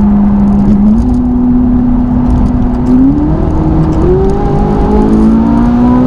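Ferrari 458's V8 engine through its Capristo exhaust, pulling under load. Its note climbs in pitch in a few steps and then rises steadily through the second half.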